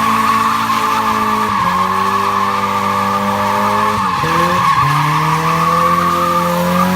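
Car doing a burnout or donuts: tyres squealing steadily against the pavement while the engine is held at high revs. The revs dip and climb back up about a second and a half in and again around four to five seconds in.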